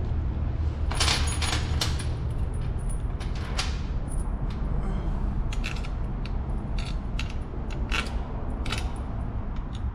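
Irregular metallic clicks and clinks of the cover's steel bolts being handled and set into the engine's side cover, over a steady low hum.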